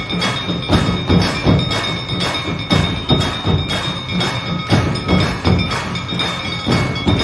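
Aarti drum and temple bells: a steady beat of about two to three strikes a second over continuous bell ringing.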